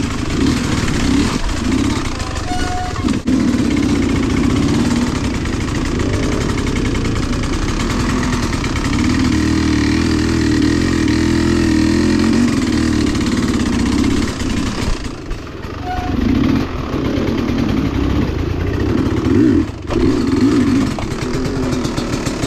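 Engine of an off-road vehicle, running continuously with its pitch rising and falling as the throttle changes.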